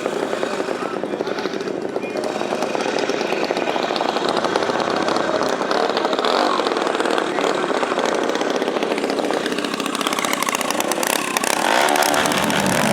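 Dirt bike engines running and revving, with one accelerating and getting louder near the end.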